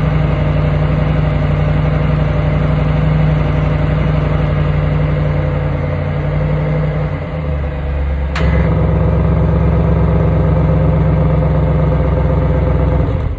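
2021 Audi RS7's 4.0-litre twin-turbo V8 idling steadily after a cold start. About halfway through, the idle note shifts and dips. A sharp click about two-thirds in is followed by a steady idle again.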